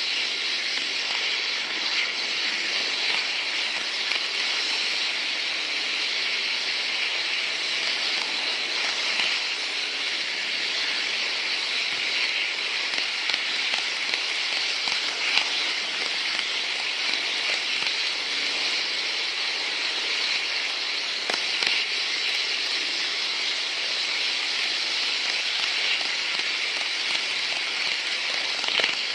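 Steady rolling hiss of an N gauge model train running on its track, with scattered light clicks.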